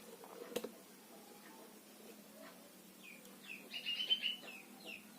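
Small bird chirping: scattered short, high chirps and a quick run of chirps about four seconds in. A single sharp tap sounds just after the start.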